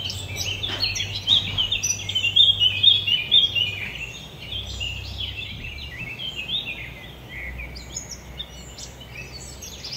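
Many small birds chirping together in a dense run of quick, high notes, loudest in the first few seconds.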